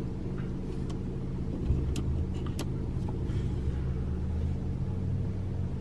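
Mercedes E300's turbocharged four-cylinder engine idling, heard from inside the cabin as a steady low hum, with a few faint clicks.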